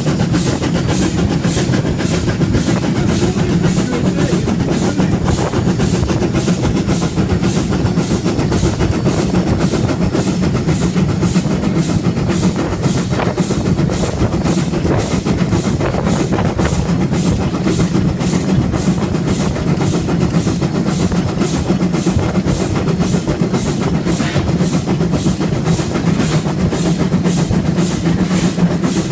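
Ivatt Class 2MT 2-6-0 steam locomotive heard from the footplate while under way, its exhaust chuffing in an even beat of about two to three a second over a steady low rumble of the running engine.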